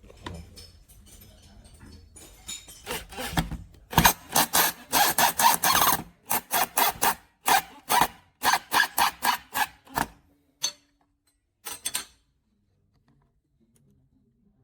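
A run of quick, separate scraping strokes, about two or three a second, done by hand rather than by a running machine. The strokes stop about twelve seconds in.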